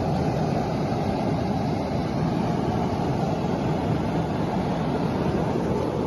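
Steady, loud rushing noise of a rainstorm, heavy and low, with no separate strokes or breaks.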